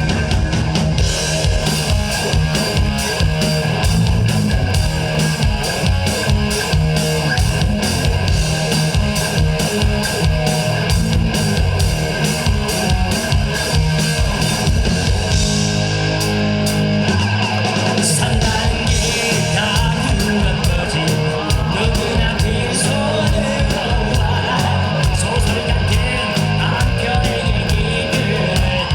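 Live rock band playing a trot song arranged as rock: electric guitar over bass and a steady drum beat, loud throughout.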